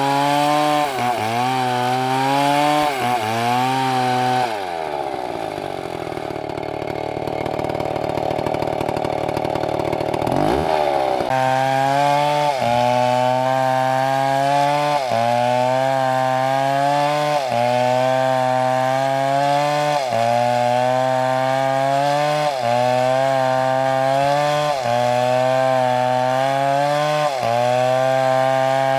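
MS720 chainsaw cutting into a large tree, its engine note dipping under load and recovering about every second and a half. About four seconds in the revs fall away to idle for roughly six seconds, then the saw revs back up and carries on cutting.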